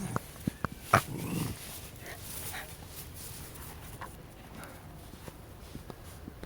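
A Shiba Inu dog making small sounds, with scattered clicks and a sharp knock about a second in, followed by a brief low rustle.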